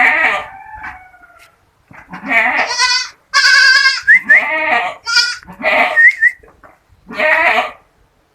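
Goats bleating repeatedly: about six loud, wavering bleats of different pitches follow one another with short gaps, as from several animals calling in turn.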